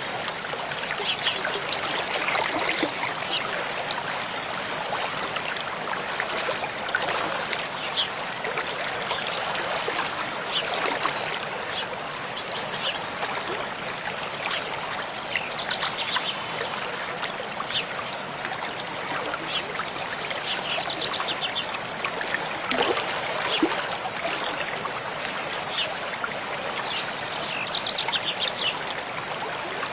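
Mountain stream flowing steadily, with birds singing a few short runs of quick high notes, clearest about halfway through and near the end.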